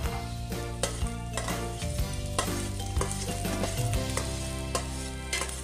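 Sliced onion and minced garlic sizzling in hot oil in a stainless steel pot, with a spatula clicking and scraping against the pot at irregular moments as they are stirred.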